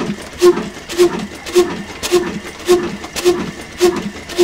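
Old black stationary diesel engine running slowly, its exhaust beating out just under two even, sharp puffs a second.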